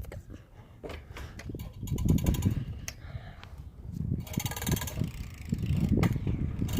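Bicycle ride: wind buffets the phone's microphone and there is low road rumble, with fast rattling ticks from the bike about two seconds in and again just past four seconds.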